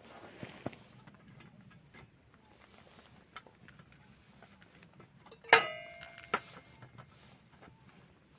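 Small objects being handled, with scattered light clicks and taps. About five and a half seconds in, a sharp metallic clink rings on briefly in several clear tones.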